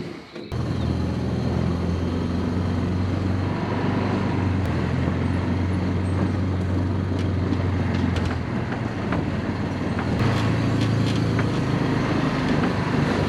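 Chinese UTV's engine running as the vehicle drives off, a steady drone that starts suddenly about half a second in.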